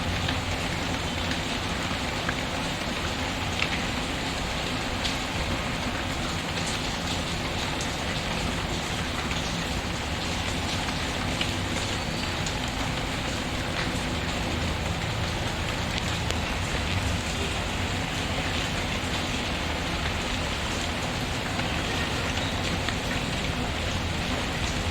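Steady rain pattering, with the occasional faint crackle of a wood fire over it.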